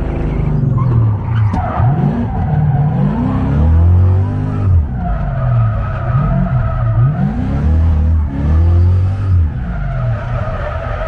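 Drift car engine revving up and down over and over as the throttle is worked. The tyres squeal in long stretches about halfway through and again near the end, as the car slides.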